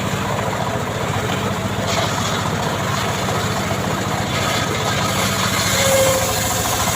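Engine of a homemade srekel chainsaw running steadily at a low, even speed.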